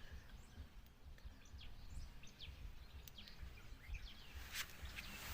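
Faint birdsong: scattered short, high chirps over a low background rumble.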